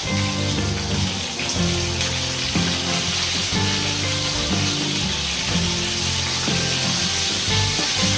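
Chicken wings frying in hot oil in a pan, a steady sizzle, under background music.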